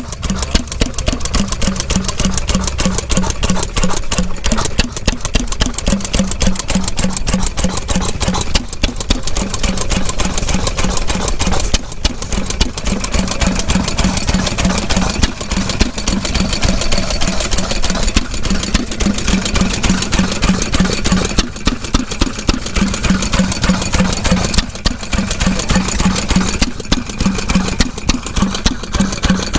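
Vintage stationary engine running steadily, with a fast, even beat of firing strokes.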